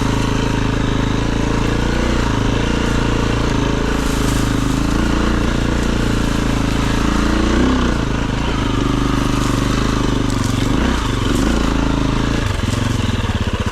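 Dirt bike engine running at steady revs, rising briefly about halfway through and dipping again a few seconds later. Near the end it drops into a slower, pulsing beat.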